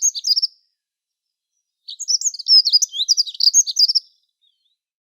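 Dunnock singing: quick, high-pitched warbling phrases, the tail of one ending about half a second in and a second one starting about two seconds in and lasting about two seconds.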